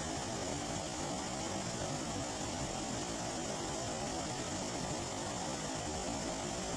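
Rain falling steadily on a flooded lake: an even, unbroken hiss of water.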